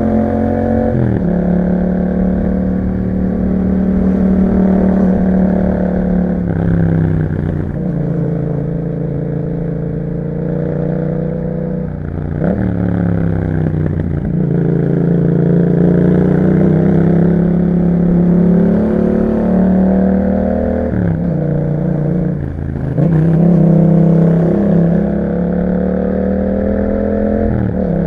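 Yamaha MT-07's 689 cc parallel-twin engine running through an Akrapovic exhaust while riding, its pitch rising and falling as the rider accelerates, eases off and changes gear several times.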